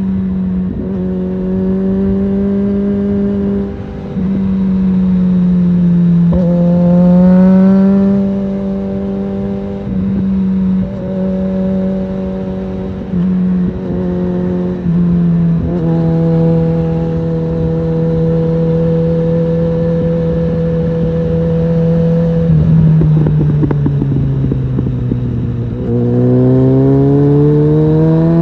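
Suzuki GSF650 Bandit's inline-four engine running through a Storm aftermarket exhaust while riding. The engine note mostly holds steady at cruise with a few brief dips, rises once about a quarter of the way in, sinks in pitch as the bike slows near the end, then climbs sharply as it accelerates again.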